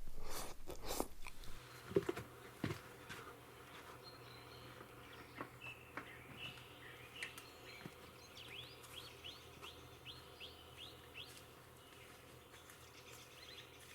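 Faint songbirds calling, with a run of about eight quick falling notes near the middle. A few rustles and knocks in the first two seconds.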